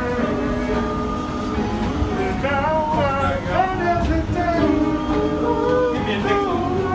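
Several voices singing together in close harmony, holding and sliding between notes, over the steady low rumble of a moving subway train.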